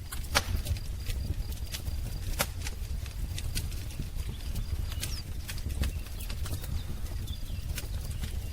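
Wood fire crackling: irregular sharp pops and snaps over a steady low rumble of the flames. Faint high-pitched bird calls sound behind it.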